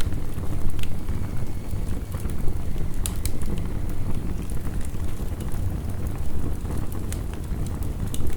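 Wood fire crackling, with scattered sharp pops and a louder snap about three seconds in, over a steady low rumble of heavy rain.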